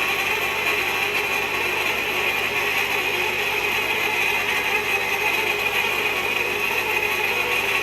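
Steady mechanical noise, an even hiss with a strong high band and no distinct strokes or clicks.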